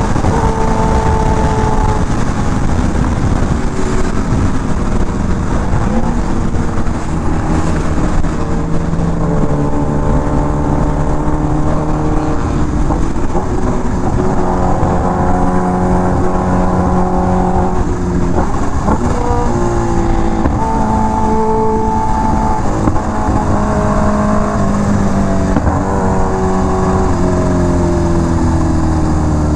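Kawasaki Ninja H2R's supercharged inline-four running at road speed under a steady rush of wind, its pitch stepping up and down as the throttle opens and closes and gears change, with a rising run of revs about two-thirds of the way through.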